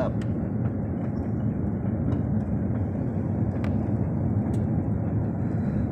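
Steady low rumble of an airliner's cabin on descent: engine and airflow noise, with a few faint clicks.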